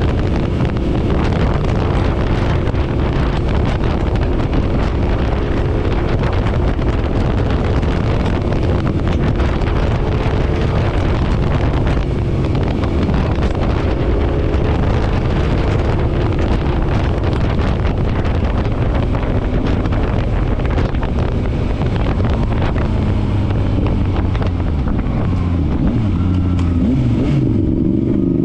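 Motorcycle engine running at a steady cruising speed with heavy wind rushing over the microphone. Near the end the wind eases and the engine note falls as the bike slows, then climbs again as it accelerates.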